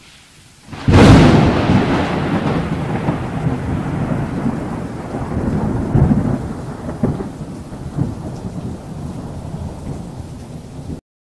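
A thunderclap about a second in, followed by rolling thunder that rumbles on with a few swells and slowly fades over a rain-like hiss, then cuts off abruptly near the end.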